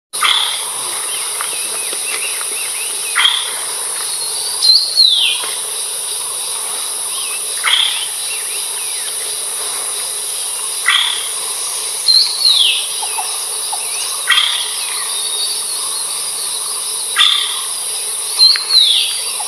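A bird gives short sharp calls every three to four seconds, and three times a falling whistle, over a steady high-pitched insect drone.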